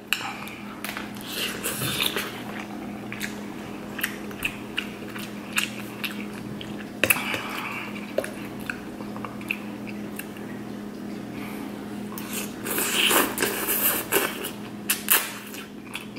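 Close-miked chewing of instant ramen noodles: a steady run of small wet clicks and smacks, with a couple of louder bursts near the end.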